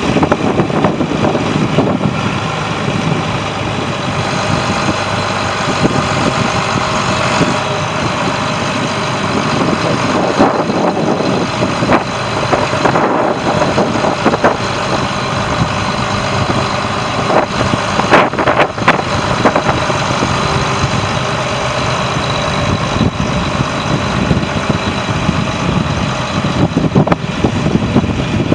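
John Deere 8640 4x4 tractor's six-cylinder turbo diesel engine running steadily, with a couple of sharp clicks about two-thirds of the way through.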